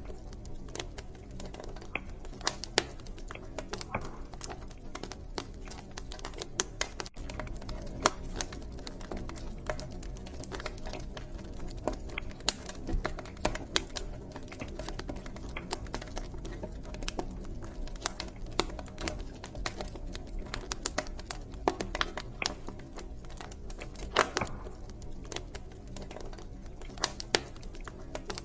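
Wood fire crackling in a fireplace: irregular sharp snaps and pops, a few louder than the rest, over a steady low rumble of the flames.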